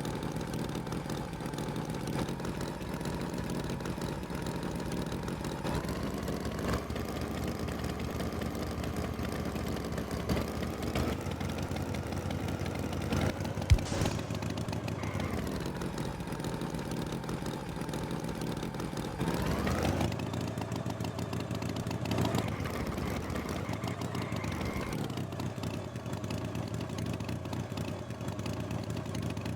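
Tractor engine running steadily, its pitch shifting a few times, with one quick rise about two-thirds of the way in.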